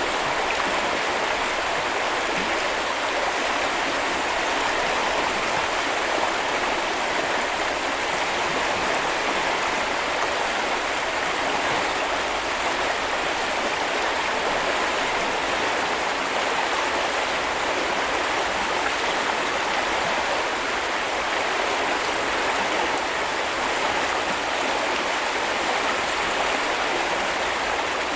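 Small river or brook flowing steadily, a continuous rushing babble of water.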